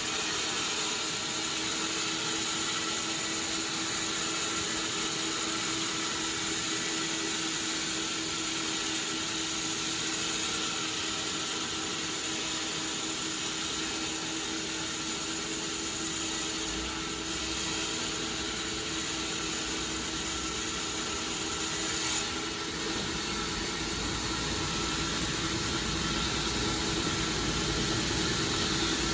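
Sawmill machinery running steadily with a constant hum and a high whine. The whine cuts off suddenly about three-quarters of the way through, leaving a lower rumble.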